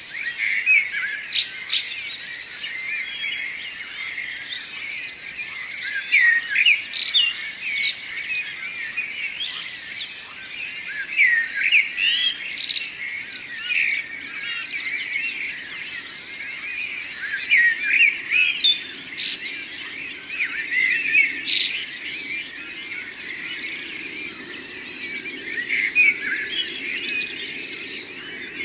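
Several birds singing at once in a morning chorus, a dense tangle of chirps and trills with louder song phrases every few seconds.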